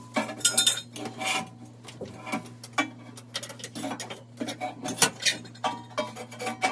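Metal boiler parts clinking and scraping as they are handled and fitted into place, in irregular knocks and rubs, over a steady low hum.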